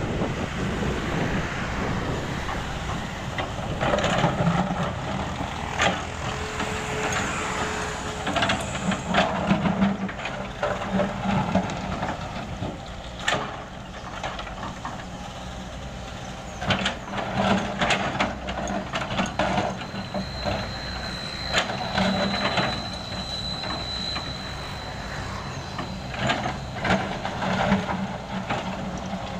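Diesel engine of heavy road-construction machinery running steadily, with many sharp knocks and clanks of metal and broken material scattered through, and a brief high whine near the middle.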